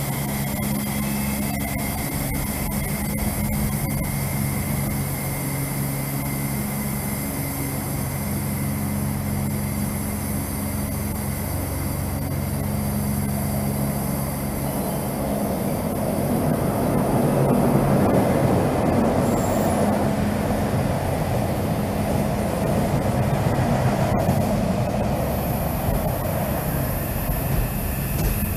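Double-deck passenger train passing: a steady low engine hum, with the rumble of the carriages rolling by growing louder about halfway through.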